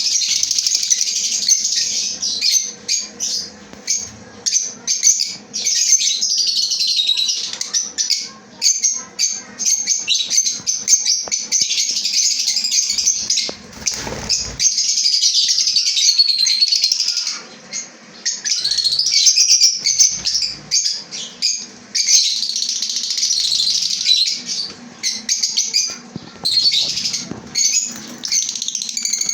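A colony of caged lovebirds chattering, many shrill chirps and calls overlapping without a break.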